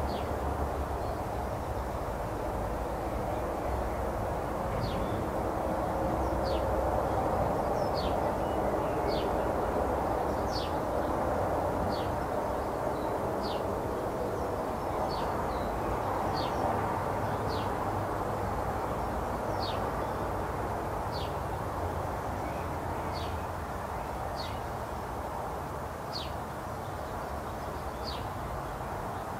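A bird calling again and again with short, high, downward-sliding notes, roughly one every one to two seconds, over a steady low background rumble.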